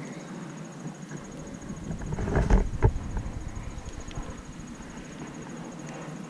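A gust of wind buffets the microphone, a low rumble swelling about two seconds in with two sharp jolts, over a steady faint high insect-like trill.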